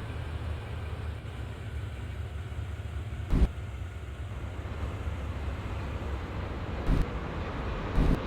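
Steady road and wind noise from a car driving while chasing a train, with a low rumble and a few dull thumps about three and a half, seven and eight seconds in.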